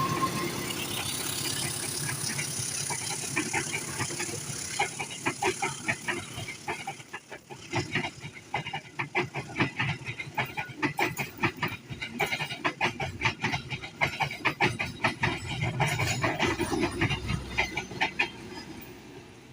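Passenger train passing, its wheels clicking rapidly and repeatedly over the rail joints, then fading away near the end.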